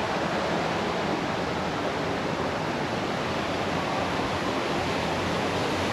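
Steady rushing of water, an even hiss with no breaks or pitch.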